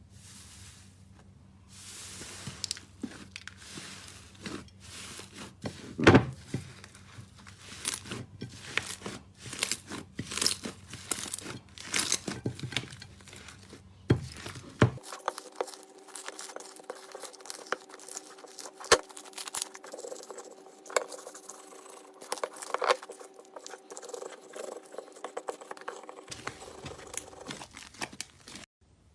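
Slime being squeezed and pressed by hand, making many quick crackles, pops and crunches, the loudest pop about six seconds in.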